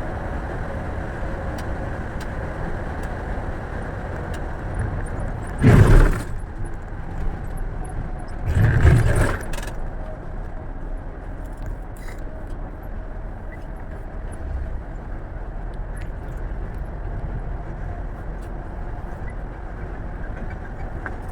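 Scania bus on the move: a steady low engine and road rumble with light rattling. There are two loud, short noisy bursts, about six seconds and nine seconds in.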